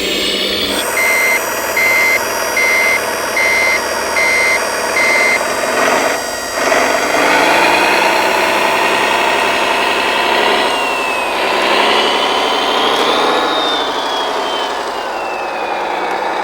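Reversing beeper on a 1:14-scale RC construction model, about six beeps at roughly one every three-quarters of a second, over steady engine running. After the beeping stops, a motor whine rises in pitch and then slowly falls away near the end.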